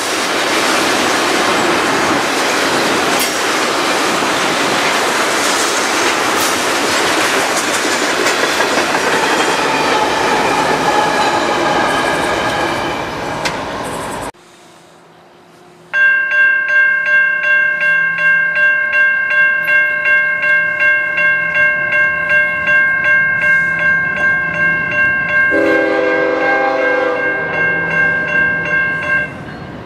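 Loaded freight train rolling past close by, steel wheels clattering on the rails with the rear DPU locomotive at the tail; the noise thins out after about 12 seconds and then cuts off. Then a grade-crossing bell rings steadily, about twice a second. Near the end a distant diesel locomotive's multi-chime air horn, a Nathan K5HL, sounds under the bell.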